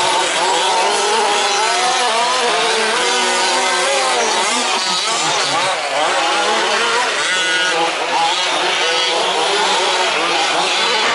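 Several 1/5-scale RC trucks' small two-stroke petrol engines buzzing at once, each revving up and down as they race, their pitches overlapping and crossing.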